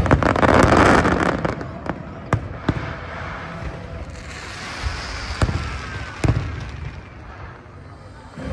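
Fireworks: a loud rushing hiss in the first second and a half, then single sharp bangs scattered through the rest, dying away near the end.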